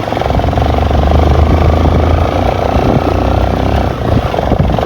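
Motorcycle engine running steadily under way, a low hum with a fast even pulse, as the bike rides along.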